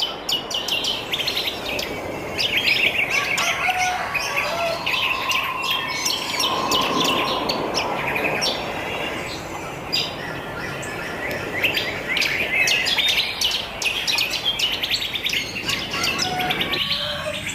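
Many wild birds chirping and trilling at once, a dense chorus of overlapping short calls over a steady background hiss.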